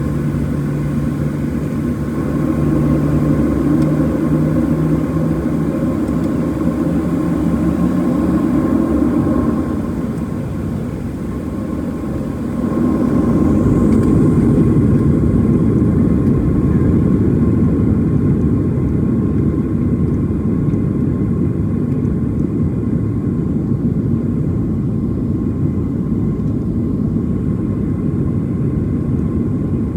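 Jet engines of a Boeing 737-700 heard from inside the cabin: a steady rumble with a low hum that fades out. The sound dips briefly, then grows louder about 13 seconds in and stays up.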